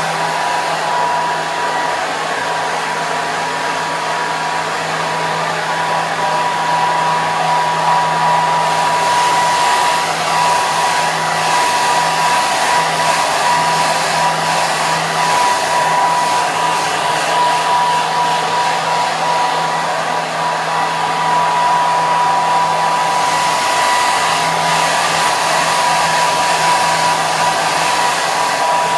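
Hair dryer running continuously: a steady loud rush of air with a motor whine and a low hum.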